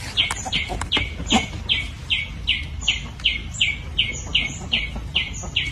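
A bird calling in a steady, regular series of short chirps, each falling in pitch, about two and a half a second, with a few thin higher notes in between.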